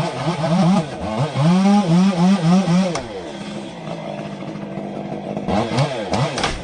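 Small petrol engine running and revving, its pitch rising and falling several times, then dropping about three seconds in to a lower, steadier note, with another brief rev near the end.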